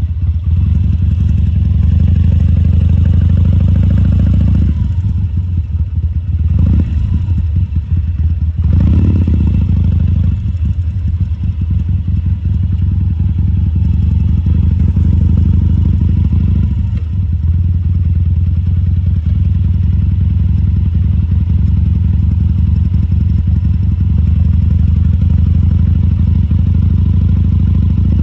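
2014 Harley-Davidson Sportster XL1200C's 1200 cc air-cooled V-twin running, with a few short swells in engine speed in the first ten seconds, then steady.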